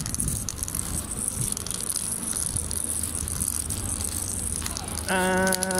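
Wind buffeting the microphone in a low rumble, with scattered clicks and street noise. Near the end a steady held note with overtones begins.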